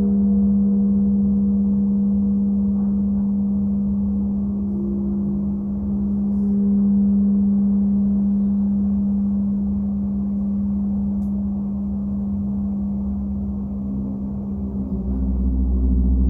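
Sound-healing drone of monochord strings and gong: a steady low hum with overtones that slowly drift in pitch. About fifteen seconds in, a deeper, fuller layer of tones swells in.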